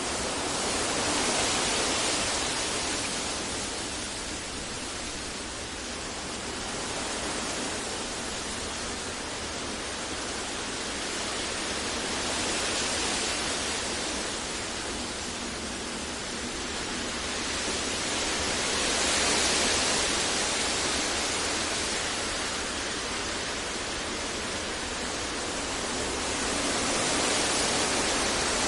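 Synthetic noise for sleep and focus: a steady, even hiss across the whole range that slowly swells and eases about every six seconds.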